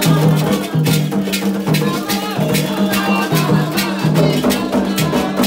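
Candomblé ritual music: a steady beat of drums and shaken rattles under singing voices.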